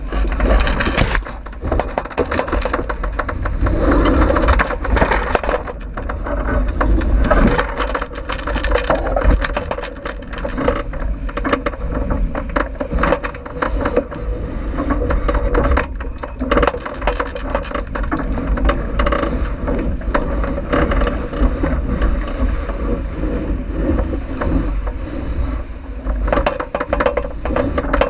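Wind buffeting the microphone over the rush of water along the hull of a J80 sailboat sailing downwind, a steady low rumble with crackles that swells and eases in gusts.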